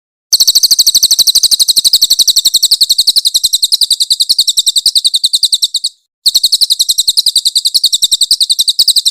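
Crested jay (cililin) giving a loud, high, rapid rattling trill of about ten pulses a second. The trill runs for nearly six seconds, breaks off briefly, then starts again.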